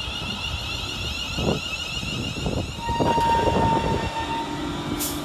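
Class 350 electric multiple unit at the platform: a steady high electrical whine with a few knocks, and a single steady tone lasting a little over a second about three seconds in.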